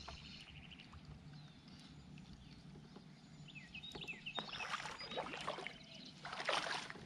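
Scuffing and handling noises aboard a fishing kayak, with two louder bursts in the second half and a few short high chirps just before them.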